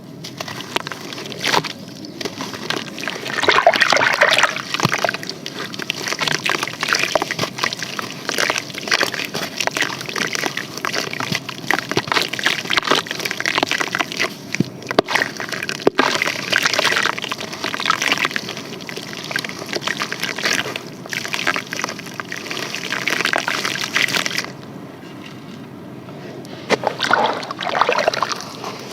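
Clumps of sand and charcoal crumbling in water, sloshing with many small crackles. The crackling dies down for a couple of seconds near the end, then starts again.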